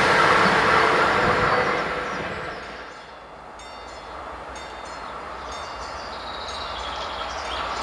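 Passenger train running on the rails, its rumble fading away over the first three seconds as it recedes; then a second, locomotive-hauled passenger train is heard approaching, its rumble growing steadily louder toward the end.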